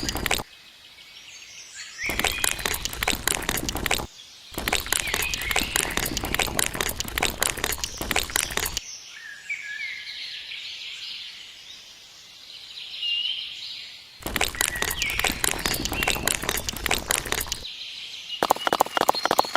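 Bursts of rapid crackling clicks, each lasting a few seconds, come and go five times. In the gaps between them birds chirp.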